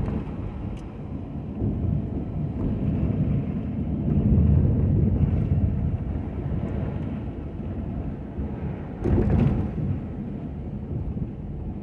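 Ford F-250 pickup with a Western snow plow running and moving, a low continuous rumble that swells about four seconds in, with a louder rushing surge about nine seconds in.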